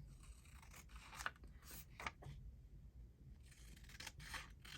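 Faint rustling and light ticks of paper cards and tags being handled and shifted about on a journal page.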